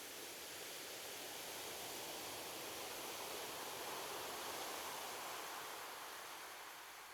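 Ocean surf washing on a beach: a soft, steady hiss of water that swells to a peak about halfway through and then fades near the end.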